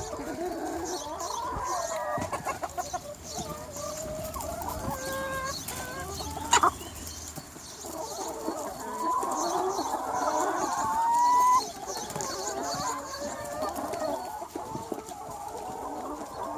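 A large flock of free-range chickens clucking, many hens' calls overlapping. Partway through, one louder drawn-out call rises in pitch and cuts off suddenly; a brief sharp sound comes a little before it.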